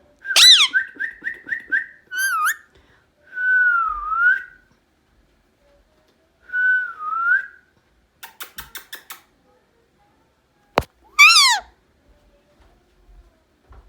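Indian ringneck parakeet whistling and screeching. A loud screech comes first, then a quick string of short whistled notes, two long whistles that dip and rise in pitch, a fast run of clicks, and a second loud screech near the end.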